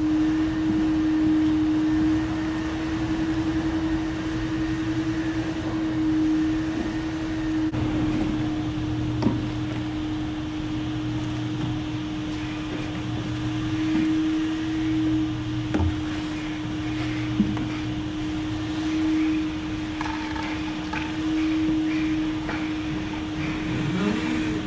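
Motor of a powered sweeper running, a steady drone with a lower hum under it, with a few light knocks now and then.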